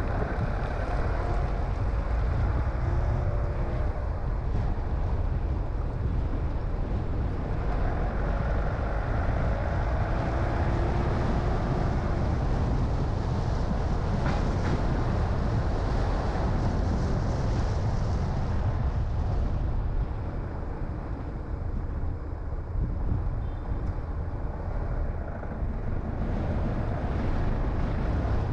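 A car driving, with a steady low rumble of road and engine noise. It eases off a little about two-thirds of the way through, then picks up again.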